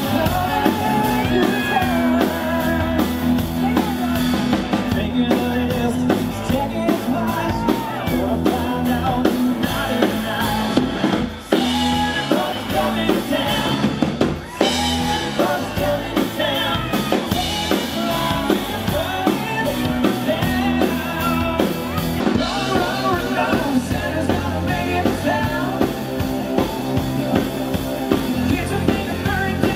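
Live band playing a country-rock song with a drum kit and a singer, heard from the crowd.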